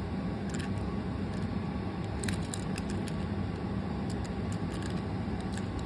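Steady low background hum and hiss, with scattered faint light clicks from a small toy engine being handled and turned over.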